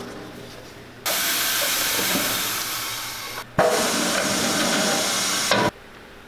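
Two long bursts of pressurised air or spray hissing, each about two seconds, starting and stopping sharply with a brief gap between them.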